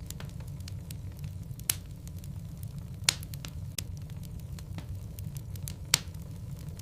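Logs burning in a fireplace: a steady low rumble of flame with scattered small crackles and three sharper pops from the wood.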